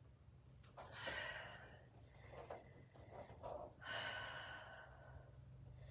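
A person's faint breathing during a yoga flow: two long, breathy exhales about three seconds apart, over a low steady hum.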